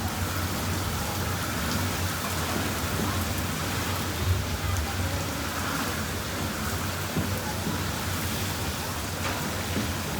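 Heavy monsoon rain pouring steadily, a dense even hiss of rain on surfaces with a few louder drop hits.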